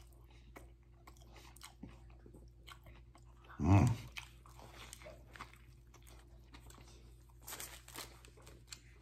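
A person chewing a mouthful of veggie sub, with faint wet chewing and crunching clicks. About four seconds in comes a short "mmm" hum of enjoyment, the loudest sound. Near the end there are a few louder crackles.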